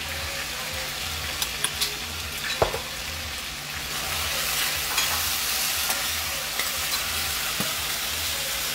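Onions, tomatoes and tomato paste sizzling in oil in a stainless steel frying pan as the paste is fried up, stirred with a metal spoon that clicks against the pan now and then. The sizzle grows a little louder about halfway through.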